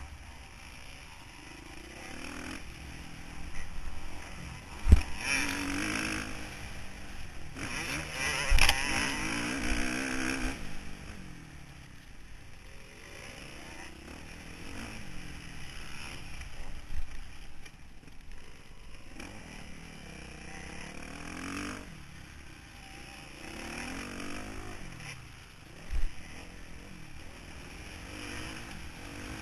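Motocross motorcycle engine heard from an on-board camera, revving up and dropping back again and again as the bike is ridden round the track, with a few sharp knocks.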